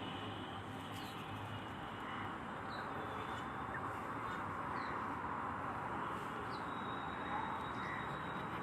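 Birds calling faintly a few times, short high chirps, over a steady background hiss.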